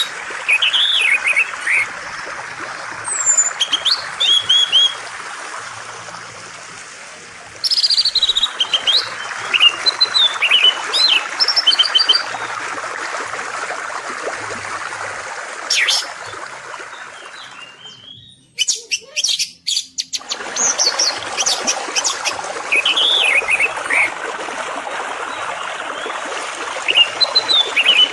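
Songbirds chirping and singing short, quick phrases over the steady rush of flowing water. About 18 seconds in, the water sound drops away for a couple of seconds with a few clicks, then water and birdsong resume.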